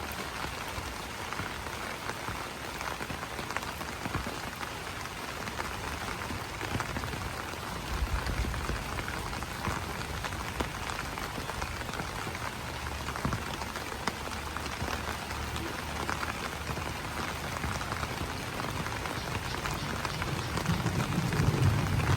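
Steady rain falling on banana leaves: a dense patter of many small drop ticks. A low rumble joins underneath about a third of the way in and grows louder near the end.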